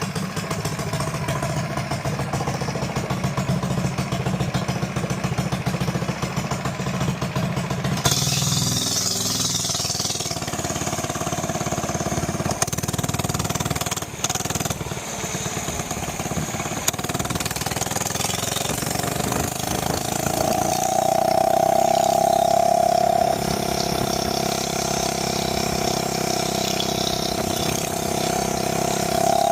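Small single-cylinder four-stroke minibike engine running through a newly fitted aftermarket exhaust in place of the stock box muffler. It runs steadily, then gets louder and a little higher in pitch about twenty seconds in, dips back, and rises again at the very end.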